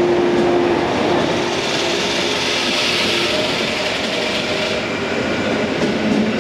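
Electric multiple-unit train moving slowly along a station platform: a steady running noise of wheels and motors, with a rushing hiss that swells in the middle.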